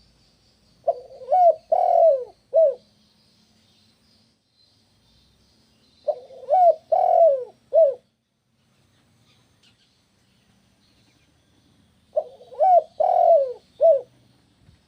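Spotted dove cooing: three phrases about six seconds apart, each of four notes. A faint high chirping runs behind them.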